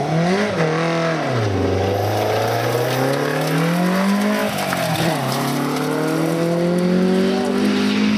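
Rally car engine revving hard under acceleration. Its pitch climbs and drops back several times, then makes one long steady climb over the last few seconds.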